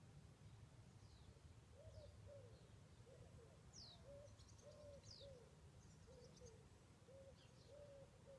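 Faint, repeated short tones that rise and fall in pitch, about two a second, an unexplained noise that seems to come from the sky, over a low steady rumble. A few thin high bird chirps come and go.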